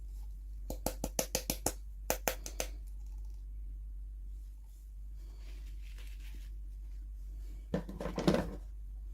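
Hands handling plastic toy packaging: a quick run of sharp clicks and taps, a second short run, then a louder clatter and rustle near the end. A steady low hum runs underneath.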